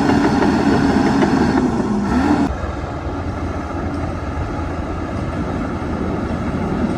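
Heavy earthmoving machine's diesel engine running; about two and a half seconds in its note rises briefly, then drops off suddenly to a quieter, lower running sound.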